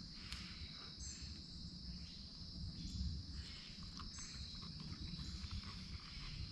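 Steady insect chorus, a continuous high-pitched trill, with a short higher chirp repeating about every second and a half over a low background rumble.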